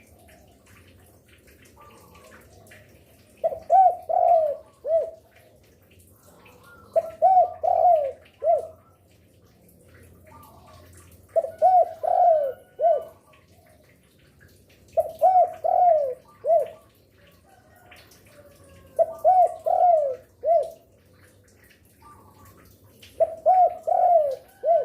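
Derkuku dove cooing. Six phrases of four or five quick coos come about every four seconds, with a faint low hum in the pauses.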